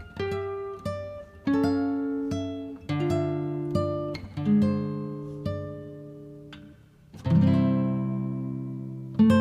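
Background music of acoustic guitar, single plucked notes and chords that ring and fade, with a slow strummed chord about seven seconds in.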